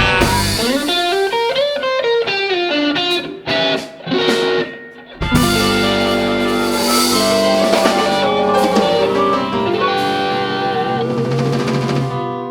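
Live band with electric guitar and drum kit: a guitar lick over thinned-out bass, a couple of short breaks, then the full band comes back in on held chords that slowly fade near the end.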